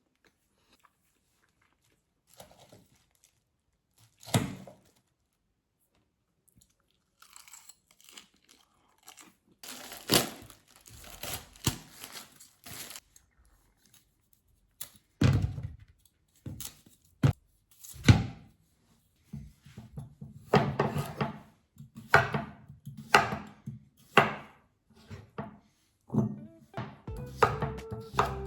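Kitchen food-preparation sounds. Scattered small clicks and rustles give way to a string of knife-on-cutting-board thunks and crunches, about one a second, as food is cut. Soft music comes in near the end.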